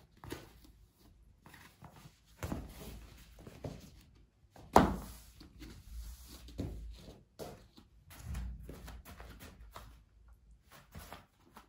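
Irregular knocks and handling noises, the loudest a sharp thump about five seconds in.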